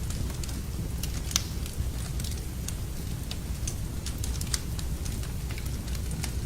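Wood fire burning in a fireplace: irregular sharp crackles and pops over a steady low rumble, with one louder pop about a second and a half in.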